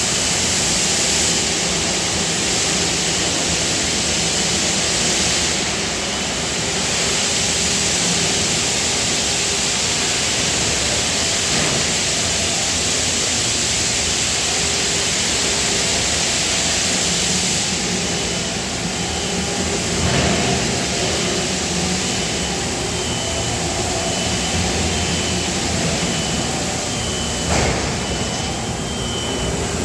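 Steady, loud hiss and hum of die-casting plant machinery running. A faint high whine comes in about halfway through, and there is a sharp knock near the end.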